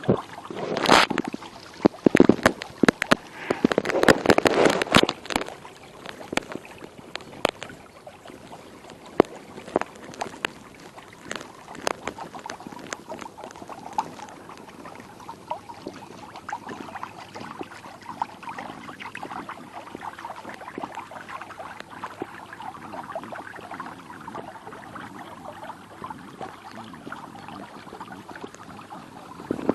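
Water splashing and sloshing, with a flurry of knocks and clatter over the first few seconds, then a steadier run of splashing.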